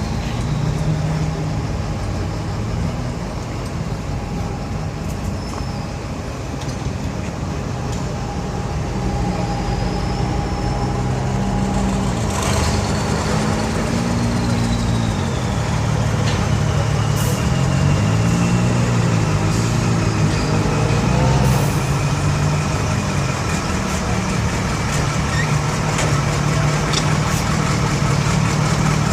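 Off-road rally vehicle engine running, mostly at a steady idle, its pitch dipping and rising a few times around the middle as it is revved or moved off.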